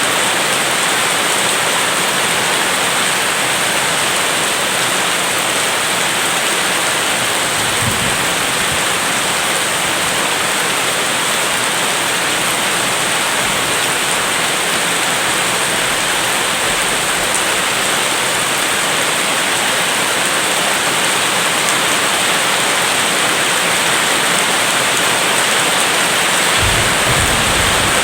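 Heavy rain falling steadily, a constant dense hiss. There is a brief low rumble about eight seconds in, and another starts near the end.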